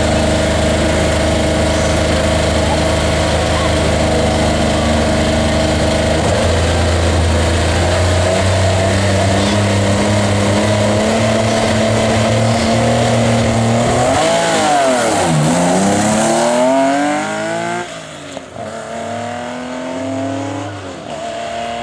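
Porsche 911 rally car's air-cooled flat-six running steadily at the stage start, its revs raised slightly about six seconds in. About fourteen seconds in it revs hard as the car launches, climbs through the gears with falling pitch at each shift, and fades as it pulls away.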